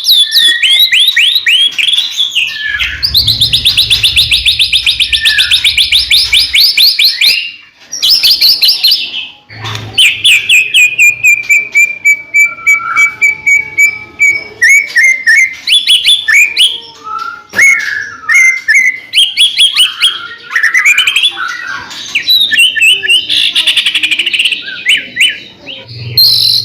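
White-rumped shama (murai batu) singing loudly and without a break: fast rattling trills and chattering phrases, with one long, slowly falling whistle near the middle.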